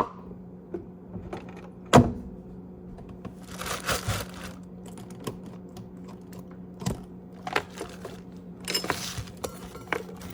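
Kitchen handling sounds: a sharp knock about two seconds in and small clicks and clatter of dishes or cookware, with two short bursts of hiss or rustle, over a steady low hum.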